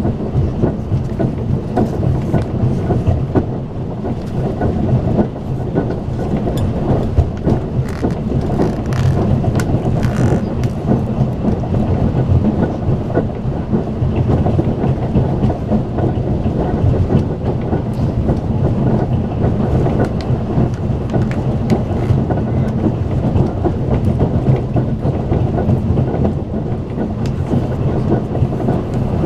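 Steady low rumble of a Talgo passenger coach running at speed on the line, heard from inside the car: continuous wheel and running noise with no distinct rail-joint clicks.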